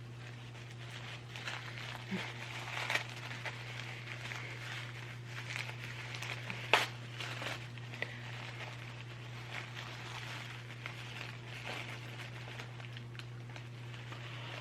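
Wrapping crinkling and rustling in irregular short bursts as a gift package is opened by hand, with one sharp click about seven seconds in, over a steady low electrical hum.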